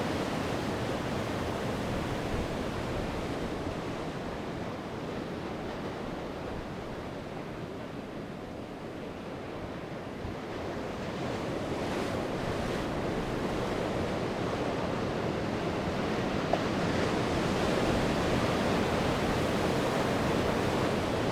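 Sea waves breaking and washing on the shore, a steady rush that eases off and then builds again to a louder surge, with some wind on the microphone.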